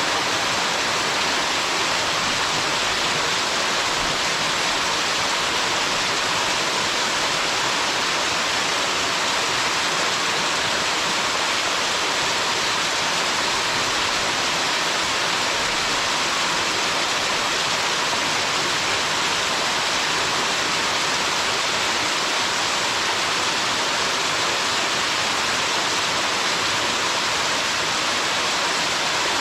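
Waterfall pouring forcefully onto rock, a steady, even rushing hiss with no let-up.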